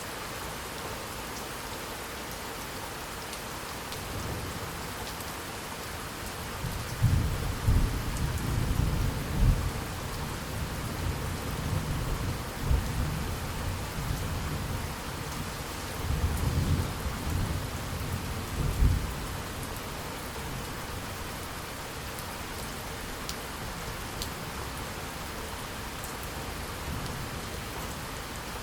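Steady rain, with a long roll of thunder that builds about four seconds in, rumbles loudest in several peaks over the next dozen seconds, and fades away, leaving the rain alone.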